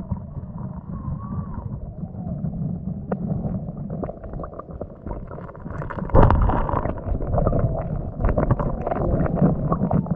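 Wind rumbling on the microphone outdoors, with a louder patch of rustling and clicking noise from about six seconds in.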